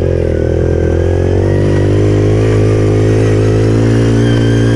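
Pit bike engine running at steady revs, its pitch held nearly constant while the bike is ridden.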